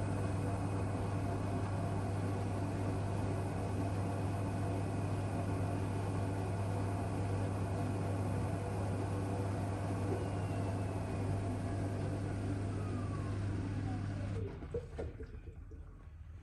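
Miele W1 washing machine spinning at high speed on its final spin: a steady motor hum and drum rumble, then the motor's whine falls in pitch as the drum slows, and the loud hum stops suddenly about two seconds before the end.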